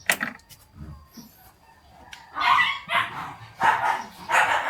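A dog barking, about four sharp barks in quick succession starting some two seconds in, after a single click at the start.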